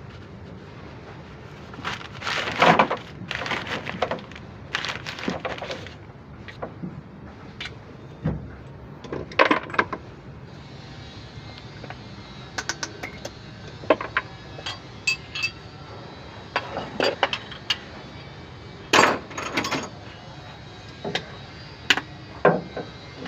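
Metal hand tools and engine parts clinking and knocking during an engine teardown, as irregular separate strikes and short rattling runs.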